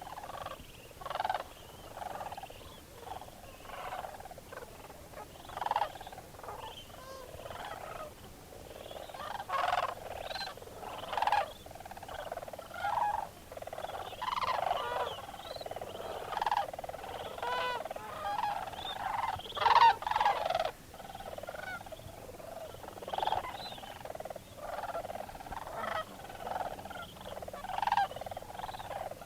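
A large flock of sandhill cranes calling from a roost, many birds' calls overlapping without a break, with a loud peak about twenty seconds in.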